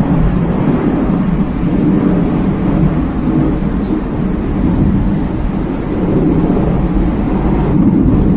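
Strong wind buffeting the microphone: a loud, steady low rumble that swells and eases slightly with the gusts.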